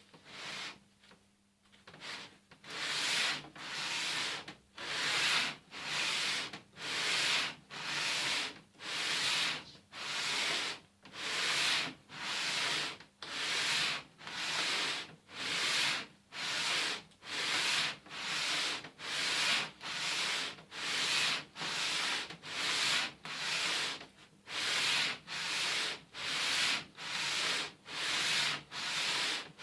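Exhaust manifold flange rubbed back and forth on abrasive paper laid on a glass plate, a steady rhythm of rasping strokes a little more than one a second, starting about two seconds in. Hand lapping to grind the flange face flat.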